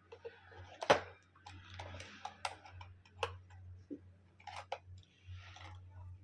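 A string of light clicks and knocks, the sharpest about a second in, with soft rustling between them: small objects being handled.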